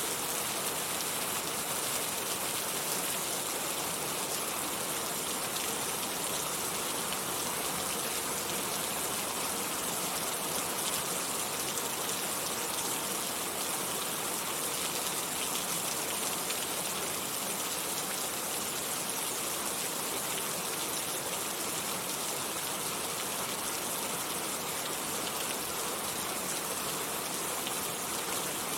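Steady rain falling: an even, continuous hiss of many drops that holds unchanged throughout.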